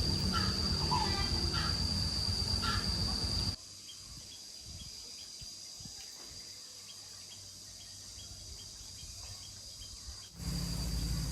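Outdoor ambience with a steady high-pitched insect drone over a low rumble. About three and a half seconds in it cuts abruptly to a quieter background with faint ticking, and the drone returns near the end.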